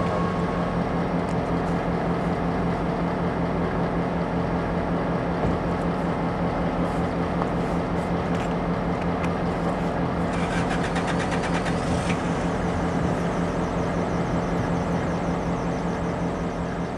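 An engine running steadily at constant speed: an even hum at one fixed pitch. A brief rapid rattle sounds about ten seconds in.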